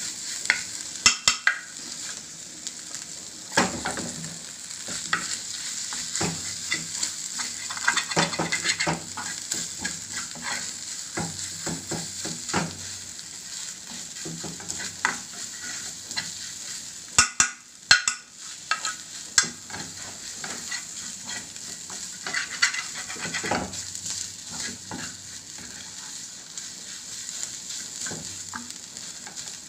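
Flaked tuna with chopped onions and peppers sizzling steadily in a frying pan, while a spatula stirs and scrapes it around the pan with frequent short clicks and scrapes.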